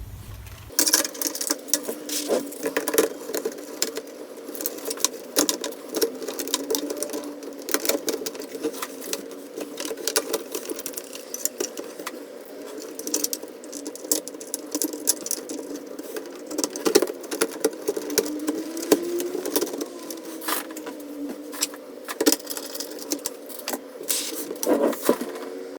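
Dense, irregular clicking and rattling of small plastic keyboard parts being handled and fitted.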